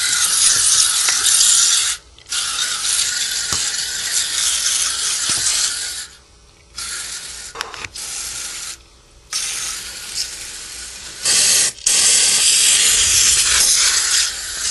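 Aerosol can of Nu-Calgon CalSpray Evap Foam No Rinse coil cleaner spraying foam onto an evaporator coil. It comes in about five long hissing bursts with brief pauses between them.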